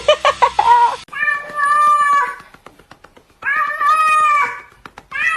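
A pet animal giving a quick run of short yelping cries, then two long, drawn-out meow-like wails and a brief final cry.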